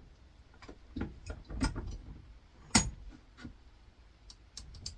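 Small metal parts being handled on a workbench: scattered clicks and light knocks, one sharper metallic strike near the middle and a few faint ticks near the end.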